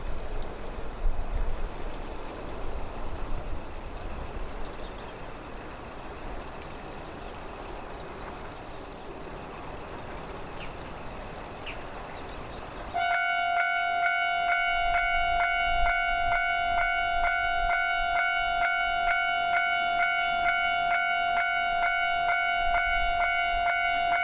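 Outdoor ambience with a steady hiss and short bursts of high chirring. About halfway through, a railway level-crossing alarm starts suddenly: an electronic ringing tone that pulses evenly about twice a second, warning of an approaching train.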